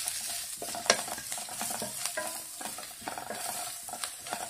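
Sliced onions, green chillies, ginger, garlic and curry leaves sizzling in hot coconut oil in a nonstick wok, stirred with a wooden spatula that scrapes and knocks against the pan. There is a sharp spatula knock about a second in and another near the end.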